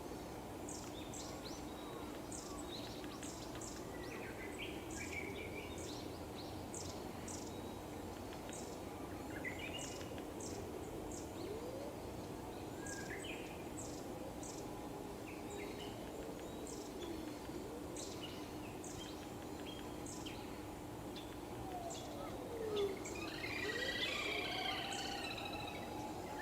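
Small wild birds calling: many short, very high, thin notes throughout, with a brighter warbling phrase near the end. Underneath run a steady hum and slow tones that glide up and down.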